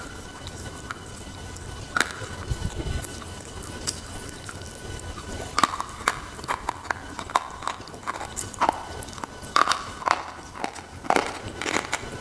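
Close-miked chewing of a brittle white chalky slate bar: sharp crunches and crackles, sparse at first, then coming thick and fast over the second half.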